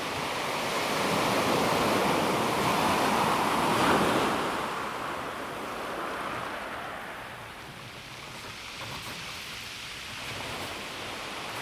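Calm sea waves on a pebble beach: one wave swells and washes up, loudest about four seconds in, then eases back, with a faint crackle near the end.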